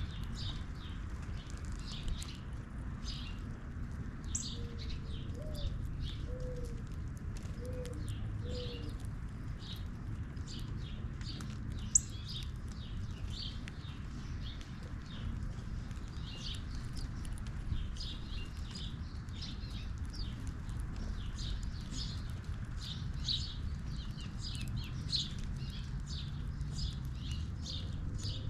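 Small birds chirping in short, repeated high notes throughout, over a steady low background rumble. About five seconds in there are four short, low calls.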